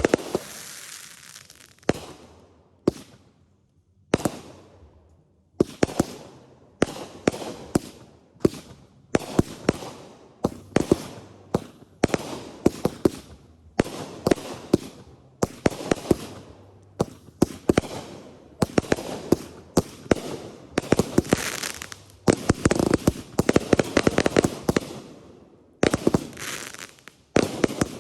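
Consumer fireworks going off: sharp bangs with fading crackle. A few single reports come first, then from about six seconds in rapid strings of bangs and crackling follow one another almost without pause.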